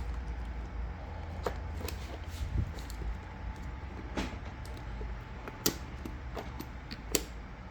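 Small sharp clicks and taps, four of them louder and spread a second or so apart, from hands and a screwdriver working the clip and cables of a motorcycle's exhaust valve servo, over a steady low rumble.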